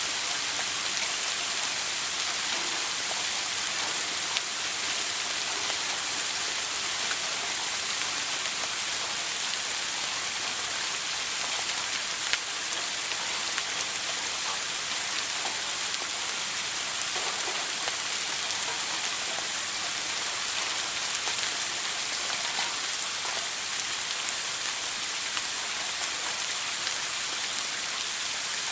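Shower water falling steadily, a continuous hiss of spray with fine splashes and drips spattering on a hard surface.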